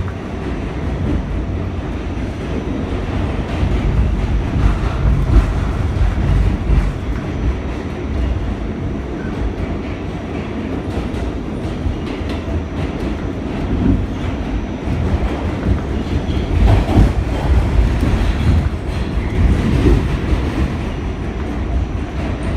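R46 subway car running at speed, heard from aboard: a steady low rumble of wheels on rail with the clickety-clack of the track.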